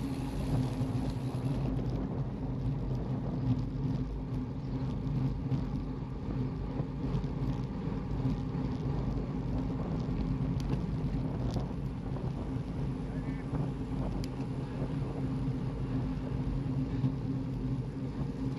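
A motor vehicle's engine drones steadily under continuous rolling road and wind noise, with a few faint clicks.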